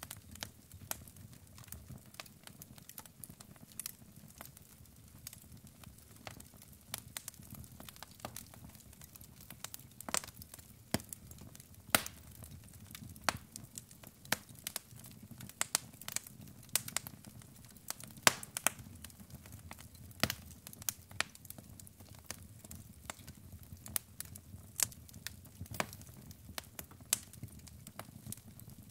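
Wood fire burning in a fireplace: logs crackling with frequent, irregular sharp pops of varying loudness over a low steady rumble of flame.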